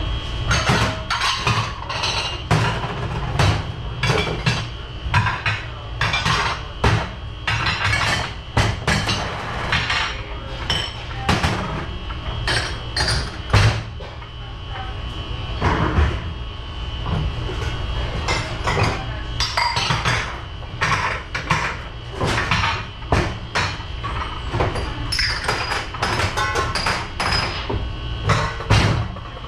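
Dishes, cups and silverware clattering and clanking as they are handled in a restaurant dish pit, with many irregular sharp knocks. A steady hum runs underneath.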